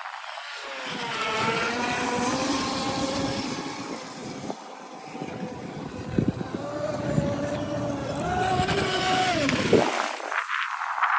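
ProBoat Recoil 2 Shreddy RC speedboat running on the water: its brushless motor whine rises and falls in pitch with the throttle over a hiss of spray. The sound thins out abruptly near the end.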